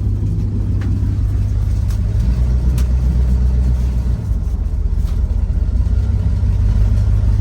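A first-generation Dodge truck's engine running steadily at low revs, freshly cold-started, as the truck begins backing out of snow.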